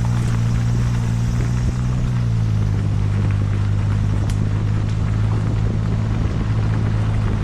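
Suzuki Jimny JB23W's 660 cc turbocharged three-cylinder engine running steadily as the car is driven along a forest road, its note easing down slightly about two seconds in.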